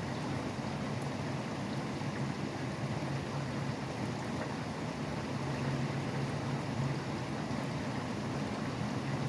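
Steady rain falling, mixed with the low, continuous noise of highway traffic.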